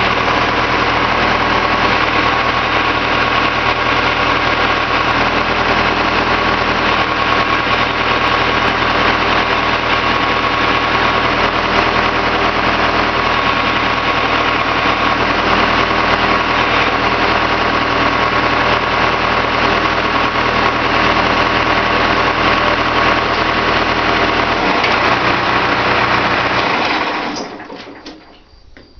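Skid loader engine running steadily at idle, then shut off about 27 seconds in, the sound dying away over a second or two. A couple of sharp taps follow near the end.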